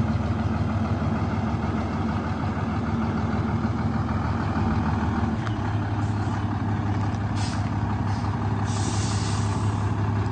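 Sinotruk HOWO 371 hp tractor truck's six-cylinder diesel engine idling steadily; its note changes about halfway through. Near the end come several short hisses of compressed air, the last and longest lasting about a second.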